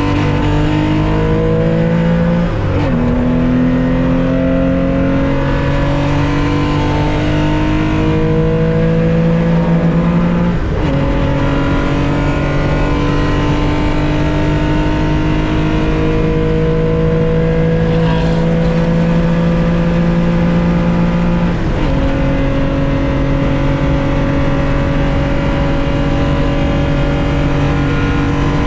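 1965 Porsche 911's 2.0-litre air-cooled flat-six pulling hard under full throttle, heard from inside the cockpit, its pitch climbing slowly. Upshifts come about 3, 11 and 22 seconds in, each dropping the revs before the engine climbs again through the next, longer gear.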